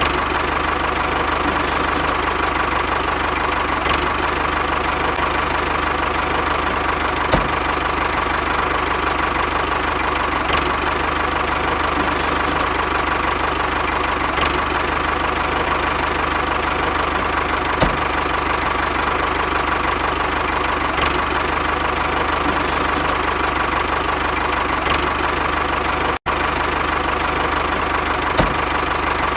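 Small engine of a home-built DIY tractor running steadily, with a few sharp knocks or clicks now and then.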